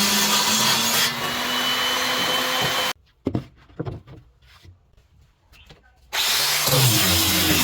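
A power tool runs steadily on wood for about three seconds, then cuts off abruptly. A few sharp knocks follow in the quiet. About six seconds in, loud tool noise starts again just as abruptly.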